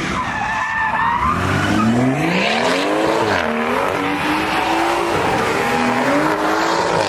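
Car engine revving hard at a street takeover, its pitch climbing about a second and a half in, then dropping and climbing again twice, while the tires squeal under wheelspin.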